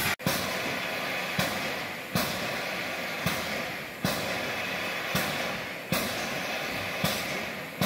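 MÁV class 424 steam locomotive, a steady steam hiss with sharp puffs roughly every second, coming in uneven pairs.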